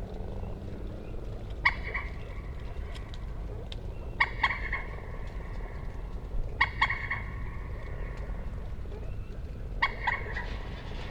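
Common moorhen calling: four short calls spaced about two and a half seconds apart, the later ones each a quick pair of notes, over a steady low rumble.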